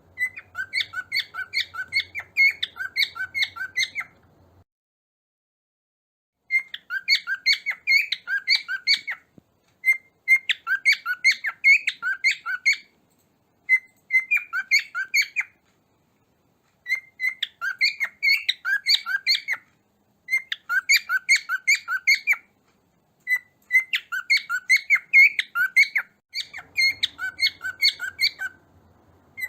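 Cockatiel chirping in rapid runs of short, sharp notes, about three or four a second, in bursts of a few seconds broken by short silences.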